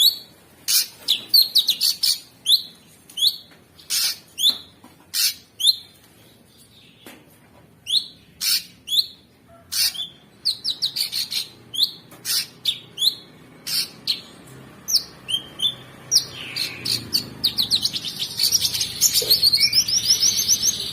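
Cucak sungkok songbird singing: loud, sharp, short whistled notes repeated about every half second, then a fast, dense rapid-fire run of notes for the last few seconds.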